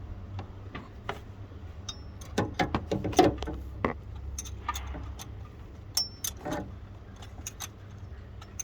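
Metal tools and parts clinking and knocking, a run of sharp clicks with a couple of short ringing clinks, busiest in the middle. A low steady hum runs underneath.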